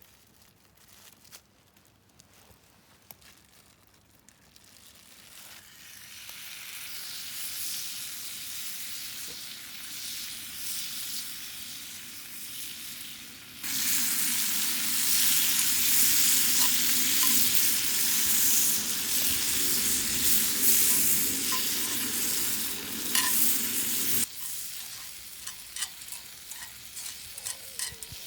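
Food frying in a pan, a steady sizzling hiss that builds gradually, jumps suddenly louder about halfway through, then drops sharply near the end, leaving scattered small crackles and pops.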